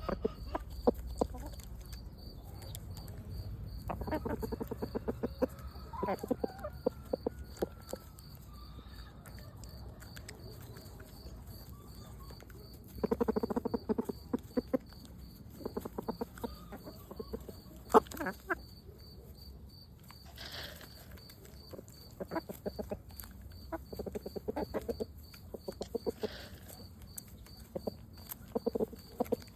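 Chicken clucking in short bursts of rapid low clucks, about seven times, each lasting around a second.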